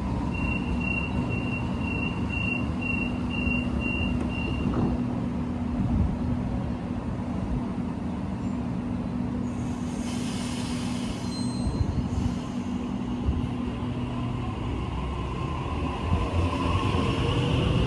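Electric passenger train at a station platform, with a steady low motor and equipment hum. A rapid run of high electronic beeps, about two a second, sounds for the first four seconds, and a brief air hiss comes about ten seconds in. Near the end a rising whine starts as a train gathers speed.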